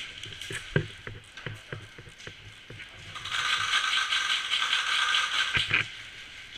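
An airsoft gun's mechanism: a few scattered sharp clicks, then about two and a half seconds of fast, continuous mechanical rattling that stops suddenly.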